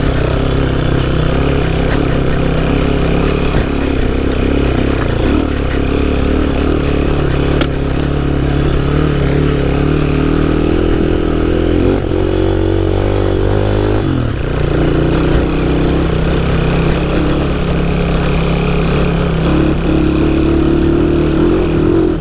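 Honda C90's small four-stroke single-cylinder engine running under load as the bike is ridden off-road. The revs climb from about ten seconds in, drop suddenly about fourteen seconds in, and rise again near the end.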